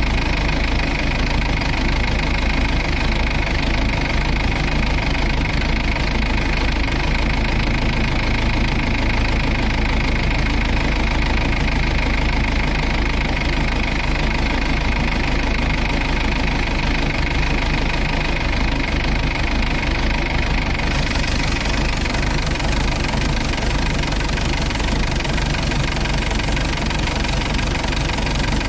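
Combine harvester's engine running steadily at a constant speed, with a little more high hiss coming in about 21 seconds in.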